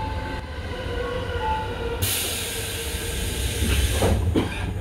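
Tobu 8000-series electric train: a steady low rumble with faint humming tones, then about two seconds in a sudden loud hiss of air lasting over two seconds, and a few knocks near the end.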